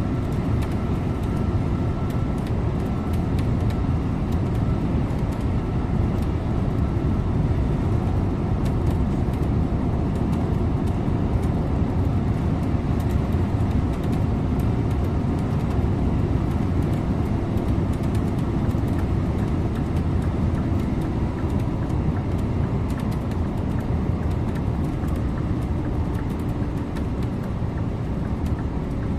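Scania InterLink bus driving at a steady pace: a continuous low rumble of engine and road noise, with faint steady whining tones above it.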